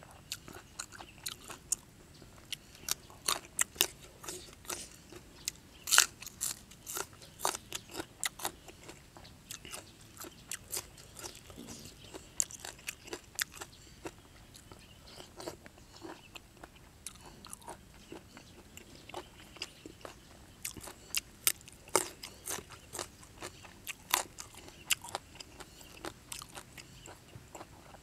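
Close-miked eating: crisp crunching bites and chewing of raw small bitter gourd and fresh leafy vegetables, with softer chewing of raw beef. The sharp crunches come in two dense runs, a few seconds in and again late on, with sparser chewing between.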